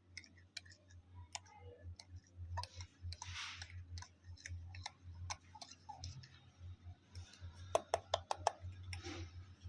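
Scattered light clicks and taps of small objects being handled, with a brief rustle a few seconds in and a quick run of louder clicks near the end, over a low steady hum.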